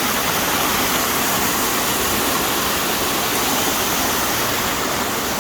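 Fast-flowing creek rushing steadily: a loud, even hiss of running water.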